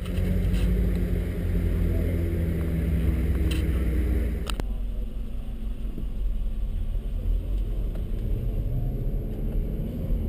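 Cadillac ATS Coupe's 3.6-litre V6 heard from inside the cabin, first idling steadily with a few sharp clicks. About four and a half seconds in the sound changes abruptly to the engine running under way with road noise, its note climbing a little about eight seconds in.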